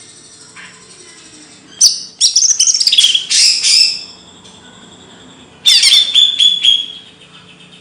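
A songbird singing in two loud bursts of rapid, chattering high notes, one about two seconds in and another near six seconds.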